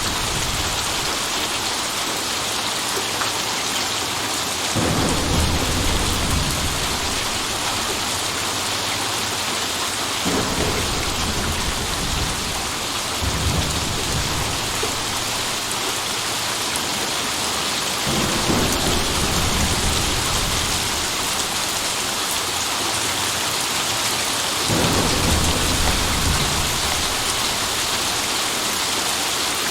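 Steady rain with four low rolls of thunder, the first about five seconds in, then at about ten, eighteen and twenty-five seconds, each lasting a few seconds.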